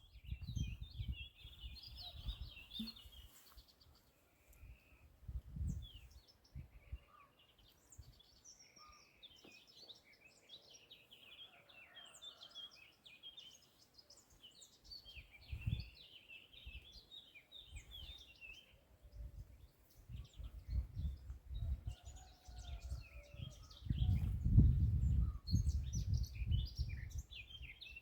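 Several small birds chirping and singing in short, overlapping phrases, with a low, uneven rumble underneath that swells loudest near the end.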